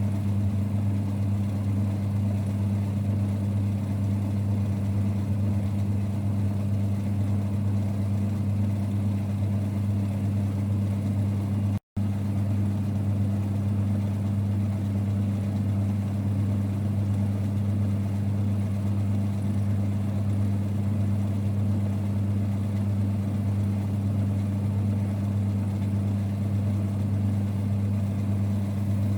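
1946 Boxford lathe running, a steady low rumble with a strong hum. It cuts out completely for an instant about twelve seconds in.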